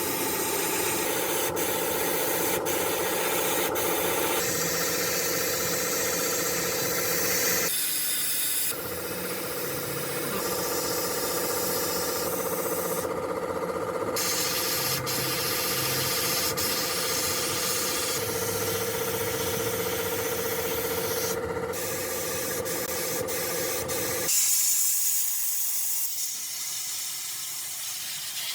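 A power sanding or grinding tool running against metal with a steady motor whine, stopping and restarting in several stretches. Near the end it gives way to a steady high hiss.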